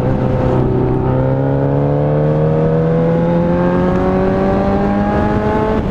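Motorcycle engine of a 1998 Suzuki GSX 750 W pulling under acceleration, its pitch rising slowly and steadily, then dropping right at the end as it shifts up a gear.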